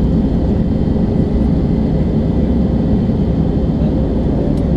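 Steady rumble of an airliner's engines and rushing air heard inside the passenger cabin as the plane descends to land, with a few faint steady whining tones above it.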